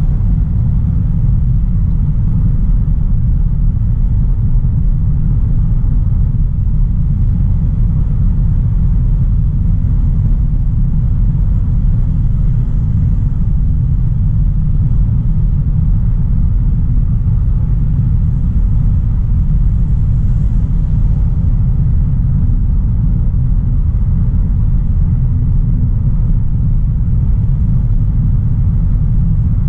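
Steady low rumble of a 2016 Audi A3 Sportback 1.4 TFSI on the move, engine and road noise at an even pace with no revving or gear-change events.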